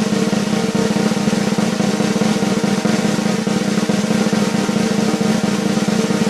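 Snare drum roll, a fast, even run of strokes held at a steady level.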